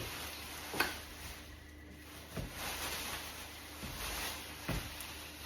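Plastic rain poncho and rain pants rustling as they are handled, with a few soft knocks and taps, the sharpest about a second in.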